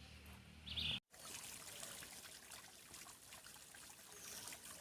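A small creek trickling steadily. A short bird call sounds in the first second, just before a brief cut to silence.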